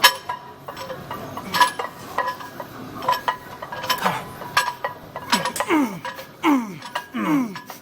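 Gym weights clinking and clanking repeatedly as a set of back exercises gets under way, with a voice giving several short falling groans in the second half.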